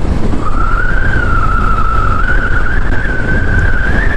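Riding noise on a Honda CB500X motorcycle: a dense low rumble of wind and engine on the microphone, with a steady high-pitched whistle that drifts slightly in pitch.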